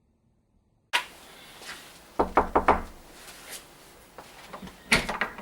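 Knocking: four quick knocks about two seconds in, and one more knock near the end, heard against faint room noise.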